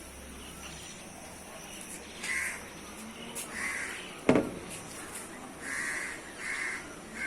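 A crow cawing: about five short, harsh caws spread over the last five seconds. One sharp knock a little past the middle is the loudest sound.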